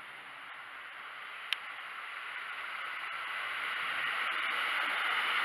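Class 150 Sprinter diesel multiple unit running into the platform, a steady rush of wheel and engine noise growing louder as it draws close, with one brief high squeak about a second and a half in.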